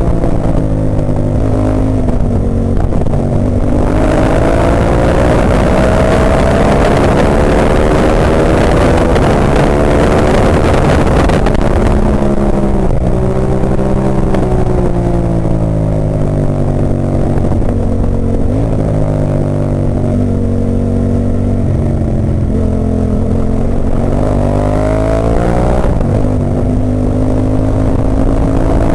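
Ducati 998's L-twin engine at race pace, heard from on board: the pitch climbs and drops again several times as the bike accelerates and slows, with a rushing noise that is strongest in the first half.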